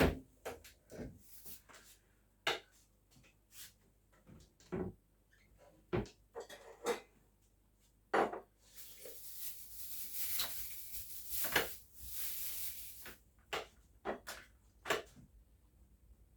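Kitchen handling sounds: scattered knocks and clicks of dishes, utensils and cupboard or drawer, with a few seconds of rustling, scraping noise around the middle.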